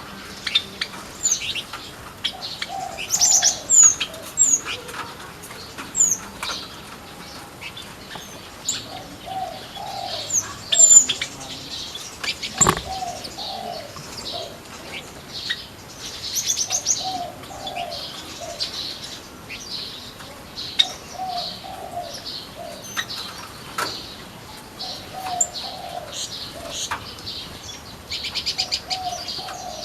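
Mixed small birds in an aviary chirping and twittering in short high notes and trills, with a dove's low coo repeating every few seconds. A single sharp click comes about halfway through.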